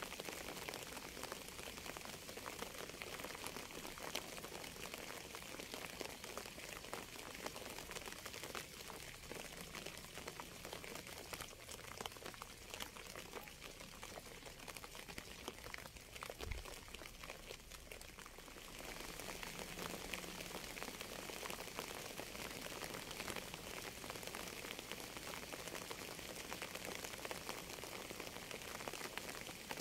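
Steady rain falling, a dense patter of many small drops over a constant hiss. The hiss brightens slightly about two-thirds of the way through.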